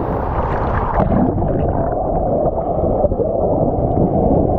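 Waterfall water heard through a GoPro dipped underwater: a dense, muffled rushing and gurgling. About a second in, the upper frequencies drop away as the camera goes under.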